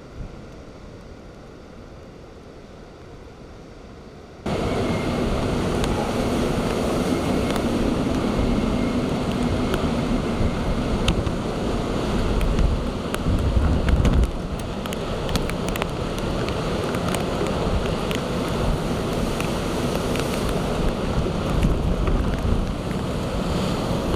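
Typhoon storm surge waves crashing and strong wind buffeting the microphone. It is quieter for the first four seconds or so, then jumps suddenly to loud surf and wind, with a heavy low rumble around the middle.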